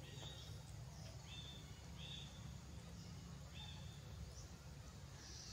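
Faint, short, high chirps, about six of them at uneven spacing, over a steady low hum.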